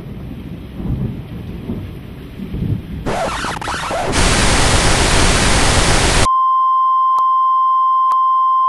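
Thunder rumbling low under rain for about three seconds, then a sudden even hiss like TV static that gets louder after a second. About six seconds in the hiss cuts off sharply into a single steady high beep like a broadcast test tone.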